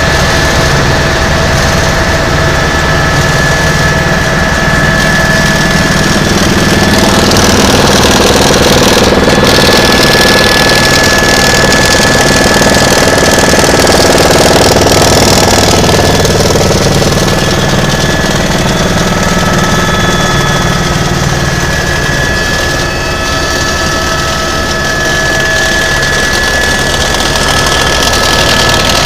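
Tour helicopter's engine and rotor running steadily, a constant low throbbing with a high, steady whine over it.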